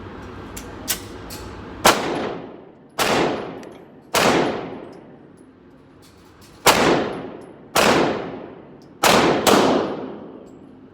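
Glock 19 Gen 4 pistol in a CAA Micro Conversion Kit firing seven 9mm shots, each echoing in an indoor range. The last two shots come close together.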